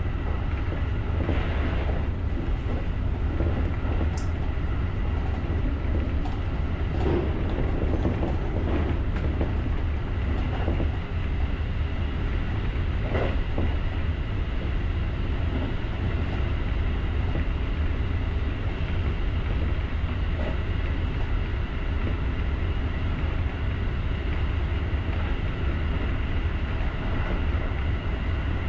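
Electric commuter train running along the track, heard from the driver's cab: a steady low rumble of wheels on rails with a faint steady high hum, and a few light clicks in the first half.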